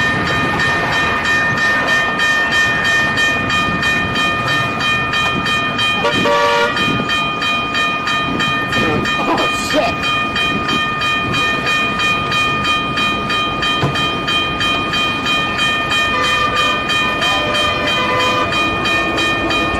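Train passing, with steady high tones held throughout over a rapid, even clicking.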